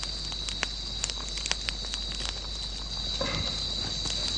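Insects chirring in a steady high drone, with scattered sharp crackles and pops from a campfire.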